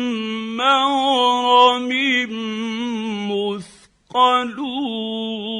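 A man's voice reciting a Quranic verse in Arabic in slow, melodic tajweed chant. He draws out long held notes with wavering ornaments and breaks off briefly for a breath about four seconds in.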